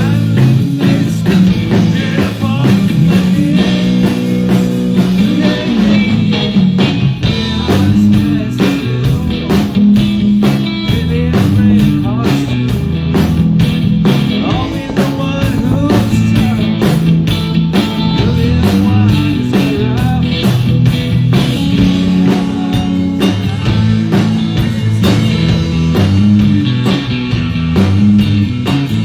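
Live rock band playing a blues-rock number: electric guitar over a bass line and a steady beat.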